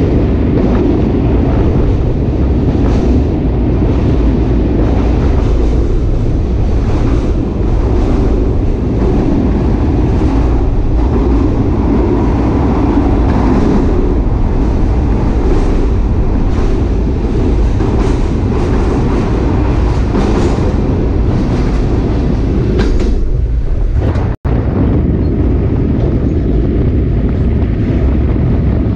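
Sagano Romantic Train's SK200 passenger car running along the rails: a loud, steady rumble with repeated clacks of the wheels over rail joints. The sound cuts out for an instant about 24 seconds in.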